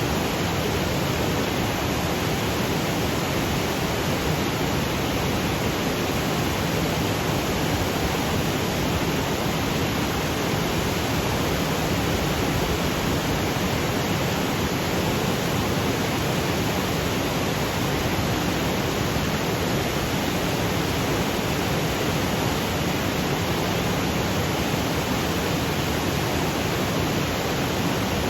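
Waterfall cascading over granite boulders: a steady, unbroken rush of water.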